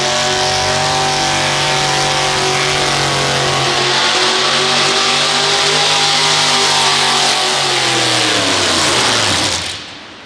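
Competition pulling tractor's engine held at high revs under full load, steady for several seconds, then its revs falling as it is throttled down, with the sound dropping away sharply near the end.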